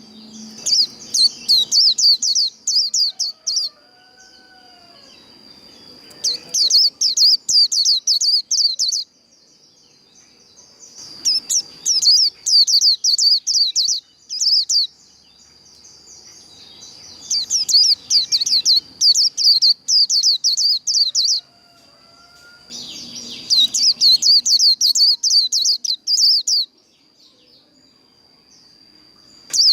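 White-eye singing its fast 'líu' competition song: five bouts, each a few seconds long, of rapid high twittering notes, with short pauses between. A steady thin high tone runs underneath.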